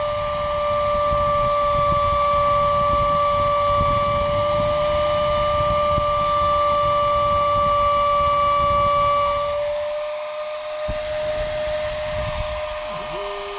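Stepper motors of a homemade Arduino CNC machine, driven by A4988 drivers, running with a steady high whine over a low rumble. About ten seconds in the rumble and the upper part of the whine drop away, and near the end another tone ramps up in pitch, holds and ramps back down as an axis speeds up and slows.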